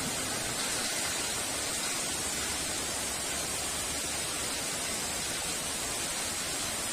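Heavy rain falling steadily, an even hiss with no thunder in this stretch.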